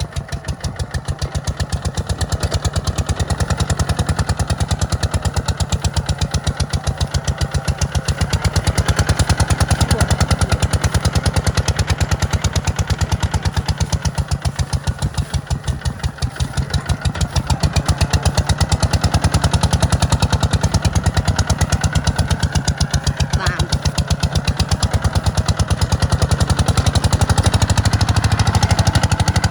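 Tractor diesel engine running steadily with a fast, even throb of firing pulses, swelling a little louder now and then.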